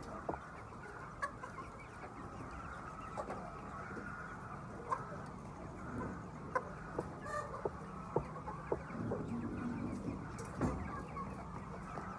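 Many chickens clucking at once, a continuous dense chatter with scattered short, sharp individual calls standing out.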